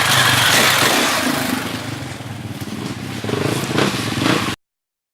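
Motorcycle engine running loud and close, with a lot of rushing noise over it. It picks up again near the end, then the sound cuts off abruptly.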